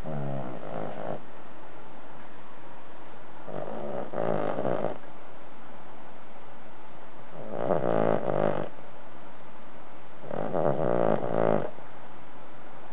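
Cavalier King Charles Spaniel snoring: four snores, each about a second long and coming about every three seconds in a steady rhythm.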